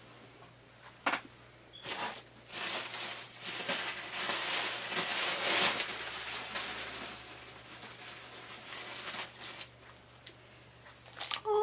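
Packaging rustling and crinkling as items are handled and unwrapped, a stretch of about six seconds with a few light knocks before it.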